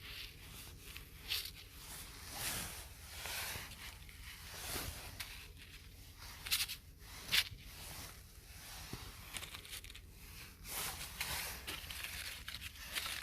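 Close, irregular rustling and crinkling with some crackling, as of dry material being handled or crushed. A few sharp snaps stand out, one early on and two close together about halfway through.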